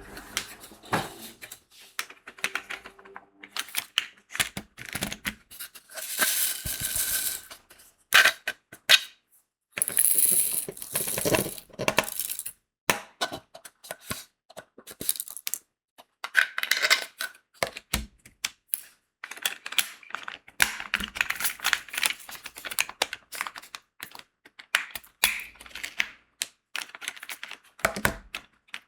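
Diamond-painting crystal drills being pressed onto the sticky canvas with a drill pen: many quick, irregular clicks and taps, with a few longer rattling stretches.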